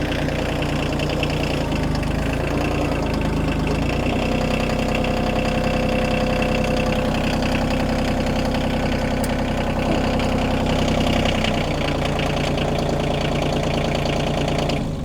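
Kioti compact tractor's diesel engine idling as it warms up, its note changing about four seconds in and changing back about eleven seconds in.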